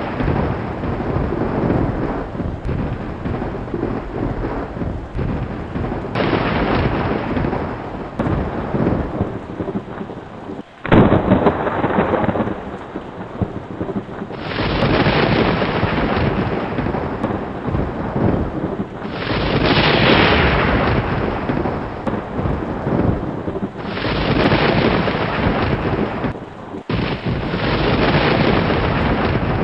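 Thunder rolling and rumbling over steady rain: a series of long rolls that swell and fade, with a sudden loud clap about eleven seconds in.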